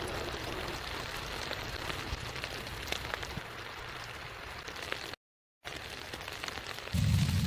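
Steady pattering like rain or sleet falling on a surface, with faint scattered crackles. It drops out to dead silence for half a second about five seconds in, and a loud low rumble comes in near the end.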